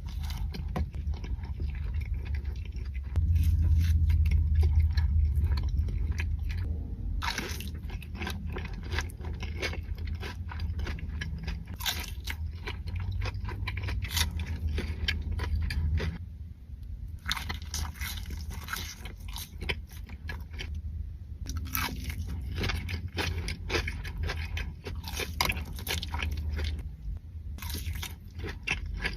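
Close-miked biting and chewing of crunchy fried food from Raising Cane's: dense crunches and wet chewing over a steady low hum, broken by a few brief pauses.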